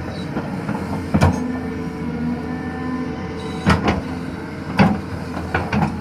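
Doosan DX225LCA excavator's diesel engine running steadily, with several sharp knocks about a second in and again in the second half.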